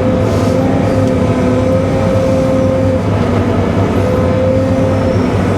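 Cat 313 excavator's diesel engine running steadily at raised throttle, with a steady whine over the engine hum.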